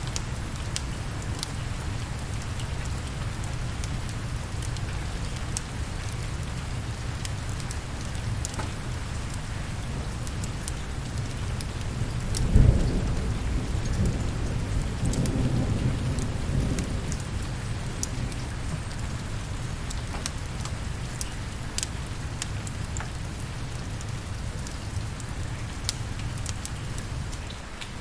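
Steady rain falling, with a clap of thunder about halfway through that rumbles on for several seconds before fading back into the rain.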